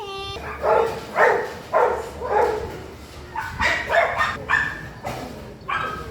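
A dog barking repeatedly, about two short barks a second, with a brief gap near the middle.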